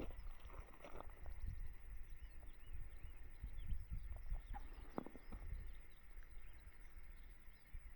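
Small birds chirping in short, high, arched calls, over a few soft footsteps and a low rumble of wind.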